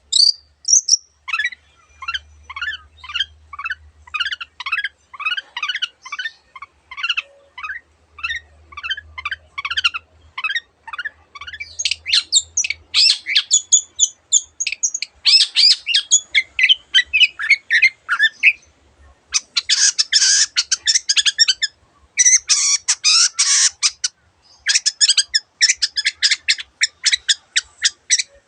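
Long-tailed shrike singing: a fast run of short, downward-sweeping whistled notes, several a second, giving way after about ten seconds to denser, harsher chattering phrases.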